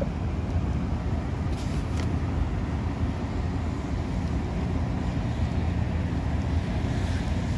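Heavy rain pouring onto a flooded asphalt parking lot, a steady wash of noise over a low, even rumble.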